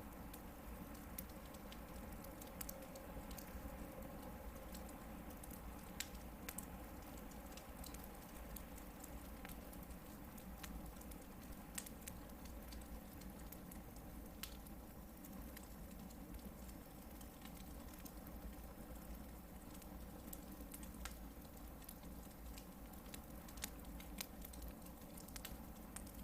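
Hardwood campfire burning, with a steady low rush and irregular sharp crackles and pops from the burning logs.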